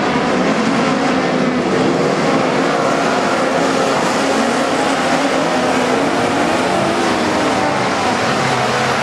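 Several midget race cars' engines running hard together, their overlapping engine notes wavering up and down steadily.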